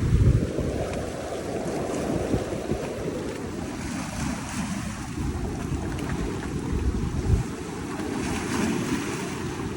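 Ocean surf washing, with a broad wave wash in the first three seconds, while wind buffets the microphone in sudden low gusts.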